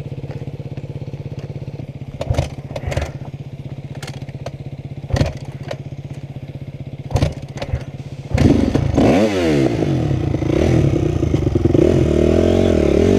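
A four-stroke dirt bike engine running at a low, steady, pulsing idle, with a few sharp knocks and clatters. About eight seconds in, it is revved hard and the pitch swings up and down as the bike pulls away.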